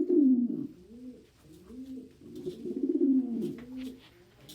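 Domestic pigeons cooing in a series of low, rolling coos. Two louder coo phrases, at the start and about two and a half seconds in, have softer, shorter coos between them. The bird is cooing with its crop puffed out, as in a male's display.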